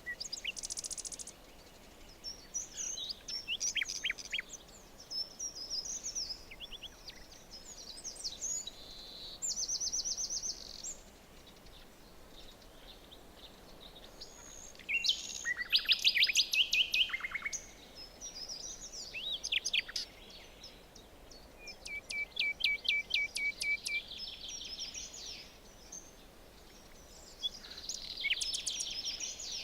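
Several songbirds singing in a forest, their phrases coming every few seconds, with the loudest burst of song about halfway through and a fast trill of repeated notes a little later, over a faint steady background hiss.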